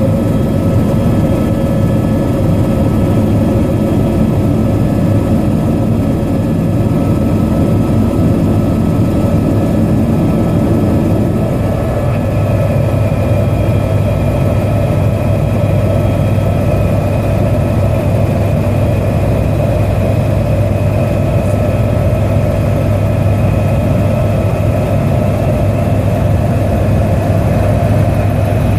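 Helicopter engine and rotor running steadily: a loud, even drone with thin whining tones over it. A higher whine comes in partway through.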